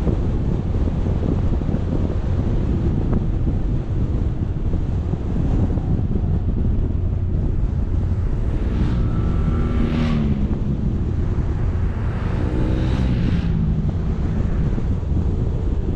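Heavy wind buffeting on an action-camera microphone while travelling, with a steady low rumble. About halfway through, and again a couple of seconds later, an engine note briefly rises and falls over it.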